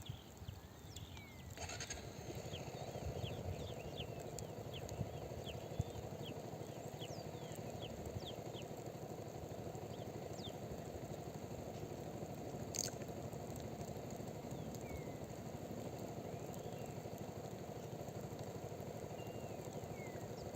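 Faint motorcycle engine running steadily as it is ridden around the practice area, coming up about two seconds in, with short bird chirps over it and a sharp click near the middle.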